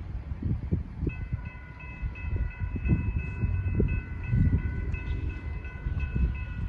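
Railroad grade-crossing warning bell starts ringing about a second in, a rapid, steady dinging. It sounds over a low, uneven rumble.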